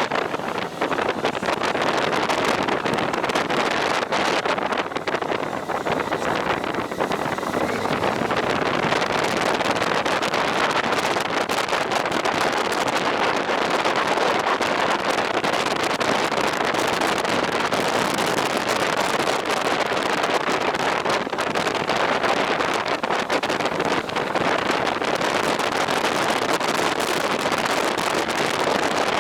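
Wind rushing over the microphone of a moving motorcycle, a steady loud roar of air and road noise with fast flutter and no distinct engine note.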